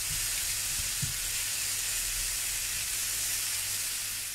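Chopped prawns and mushrooms sizzling in oil in a frying pan over the heat, a steady hiss.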